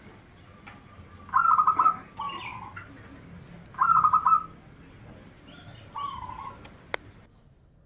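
Zebra dove (perkutut) singing: three cooing phrases about two and a half seconds apart, each a quick stutter of notes followed by a lower drawn-out coo. A single sharp click near the end.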